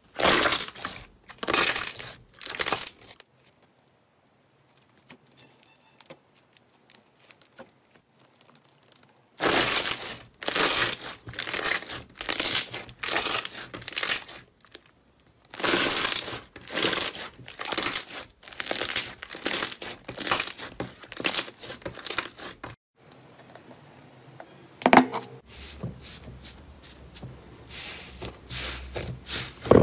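Slime being squeezed, pressed and pulled apart by hand, making crackling, crinkly noises. They come in groups of quick strokes, about two a second, with short quiet gaps where one clip ends and the next begins.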